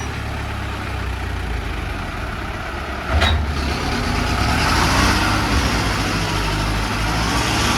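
Tractor engine running hard under load. About three seconds in there is a sudden short noisy burst, after which the engine gets louder and its pitch rises and falls, as it strains to pull the overloaded trolley out of the mud.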